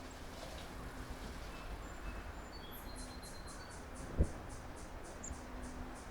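Small birds calling at a feeder: a few short, thin, high chirps, then a rapid series of high repeated notes, about five a second, from about three seconds in. A single low thump comes about four seconds in.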